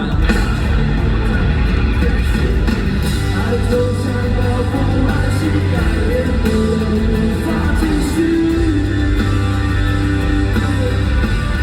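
Rock music with electric guitar, heavy bass and drums, the full band coming in at the start and playing on steadily.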